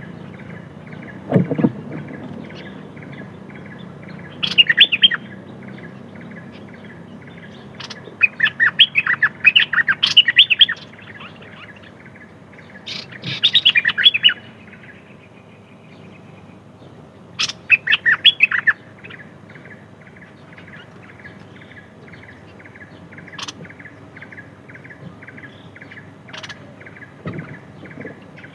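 A songbird singing loud bursts of quick, chirpy notes about a second or two long, five times with pauses between, over a steady, fast repeated chirping in the background.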